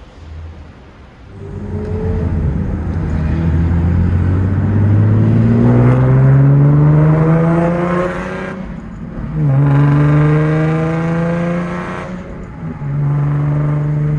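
A car engine accelerating hard. Its pitch climbs steadily for about seven seconds, drops sharply at an upshift about nine seconds in, climbs again, then holds steady near the end.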